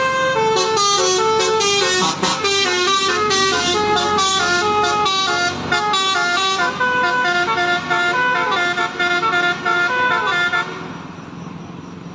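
A truck's musical horn playing a tune: a quick run of clear, stepping notes that stops about eleven seconds in, leaving a low background rumble.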